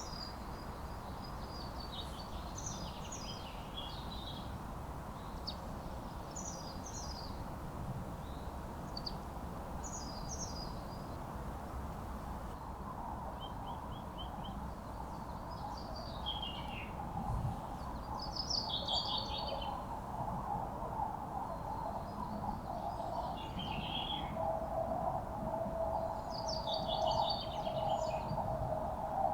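A songbird singing short, quick, falling phrases every couple of seconds over steady background noise. About halfway through, a steady droning noise joins in beneath the song and grows louder towards the end.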